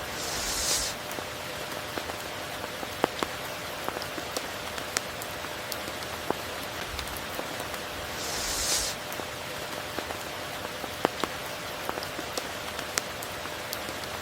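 Steady tropical rain falling, with many individual drops ticking sharply through the even hiss. There are two brief hissy swells, each about a second long, one at the very start and one about 8 seconds in.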